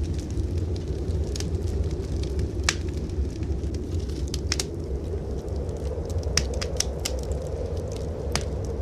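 Wood fire crackling in a fireplace, with irregular sharp pops, over a steady low rumble of blizzard wind.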